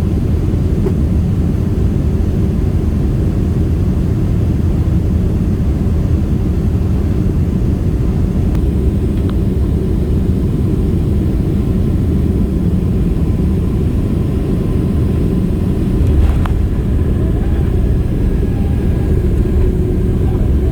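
Steady low rumble of engine and airflow noise inside an airliner cabin during the landing, with a faint click about three-quarters of the way through.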